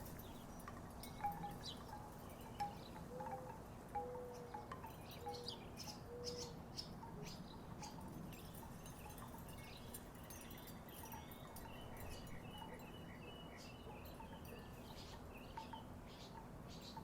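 Wooden tiki wind chimes knocking together in the breeze: irregular hollow clacks and short wooden tones, coming more often in the first half and sparser later.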